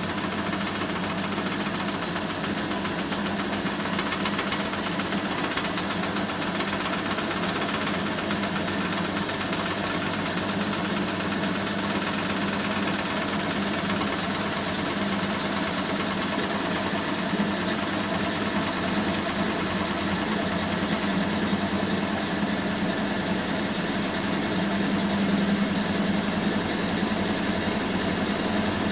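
Bosch WAN28220FF washing machine running a synthetics 40 °C wash: a steady, unbroken hum with a strong low tone and some vibration.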